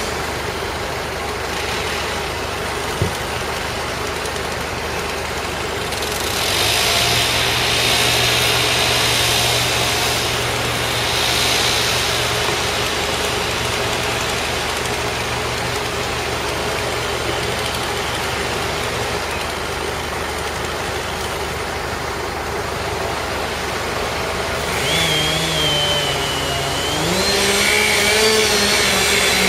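Engine of tree-removal equipment running steadily with a low hum; a brighter hiss joins it for several seconds, and near the end its pitch rises and wavers as it is revved.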